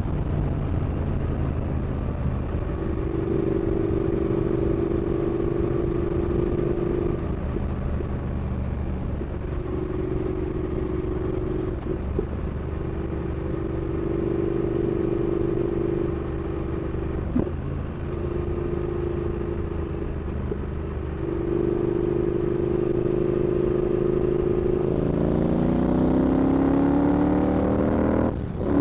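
Triumph Speed Twin 1200's parallel-twin engine running while the bike is ridden, holding a fairly steady note for most of the time. In the last few seconds the engine note rises as it accelerates, then drops briefly right at the end.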